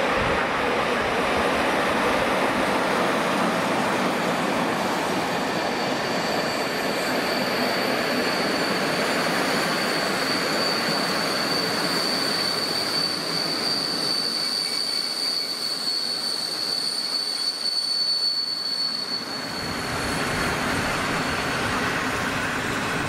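A train running past on the rails. A steady high-pitched metal squeal sets in about six seconds in and fades out around twenty seconds.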